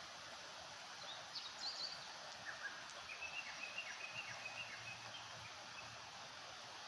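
Small birds chirping faintly over a steady hiss: a few high chirps about a second in, then a run of quick short notes between about three and five and a half seconds in.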